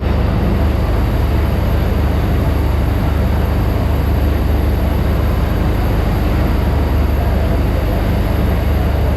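Steady, loud rumbling of a train running, with a heavy low rumble and no distinct events.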